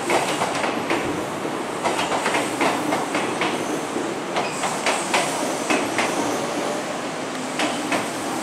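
A Kintetsu electric commuter train running over the station tracks, its wheels clicking over rail joints and points in an uneven run of sharp clicks.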